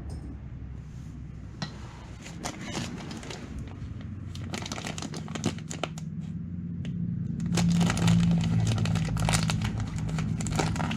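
Honda Lead 100 scooter engine running, a steady low hum overlaid with irregular clicking and rattling, getting louder about halfway through. The owner suspects the noise comes from a worn crankshaft bearing.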